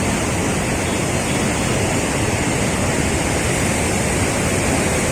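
Rushing floodwater: a steady, loud rush of water that does not change.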